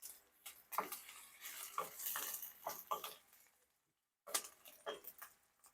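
A cooking utensil clinking and scraping against a frying pan as chopped ginger goes in with garlic and onion sautéing in oil. It makes a series of short knocks and clicks, with a brief pause a little past halfway.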